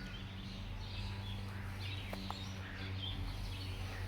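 Outdoor ambience with scattered short bird chirps over a steady low hum.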